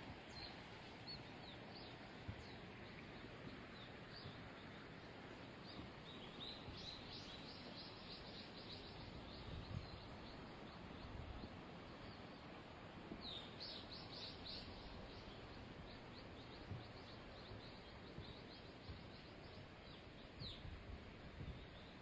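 Faint birds chirping in quick series of short falling notes, coming in a few clusters, over a steady low outdoor hiss.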